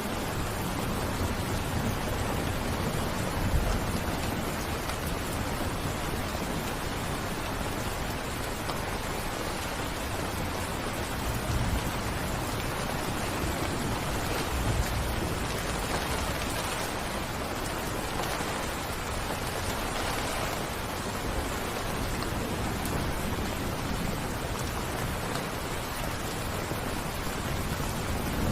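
Steady rain falling, an even hiss with a few brief low rumbles.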